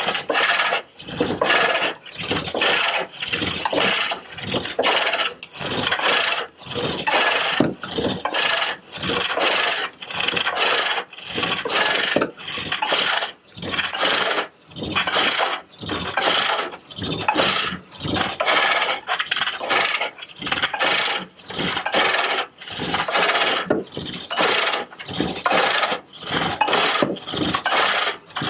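Hook tool cutting a green walnut bowl on a pole lathe: a rasping shaving sound on each cutting stroke, breaking off on every return stroke, in an even rhythm of about one and a half cuts a second.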